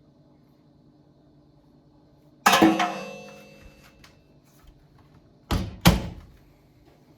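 A loud knock that rings on for about a second, like a hard object striking metal, followed about three seconds later by two quick sharp thumps.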